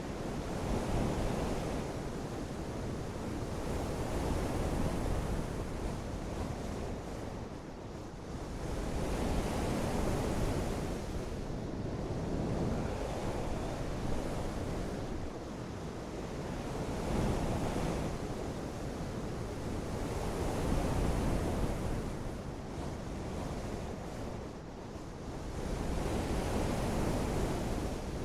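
Heavy rain in gusting wind, a dense rushing noise that swells and eases every few seconds.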